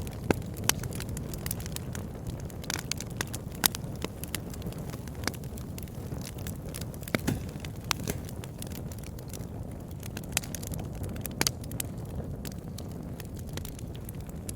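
Campfire crackling: a steady low hiss of burning with irregular sharp pops and snaps, a few louder than the rest.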